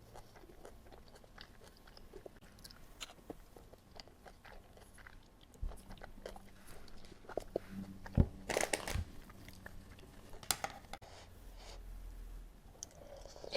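Close-up chewing and biting of food, with wet mouth clicks and a few louder crunchy bites about two-thirds of the way through.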